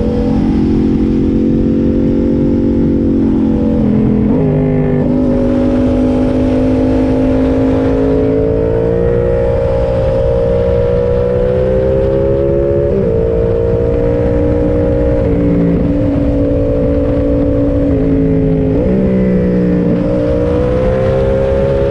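Yamaha MT-07's 689 cc parallel-twin engine running at road speed under the rider. Its note dips and climbs again several times, about four seconds in, twice in the middle and near the end, as it is shifted through the gears and accelerates. Steady wind and road rumble runs underneath.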